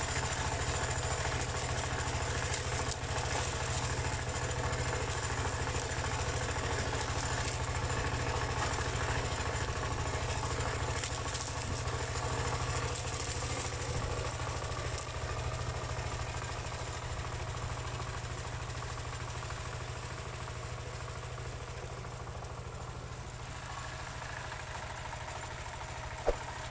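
Single-cylinder Dongfeng diesel engine of a paddy-field hand tractor running steadily under work, its sound slowly fading over the last third.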